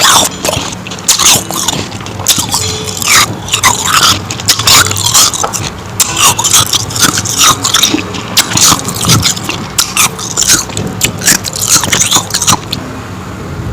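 Close-miked crunching and chewing of powdery ice: rapid, irregular crackling bites and chews that stop near the end.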